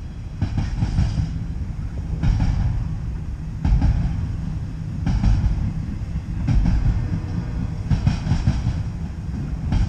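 Double-stack container freight train rolling past, a steady low rumble of wheels on rail with a burst of clatter about every second and a half as the car trucks pass.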